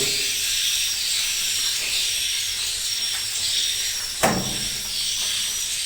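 Dense, steady high-pitched twittering of many edible-nest swiftlets in a swiftlet house. About four seconds in there is one sharp knock.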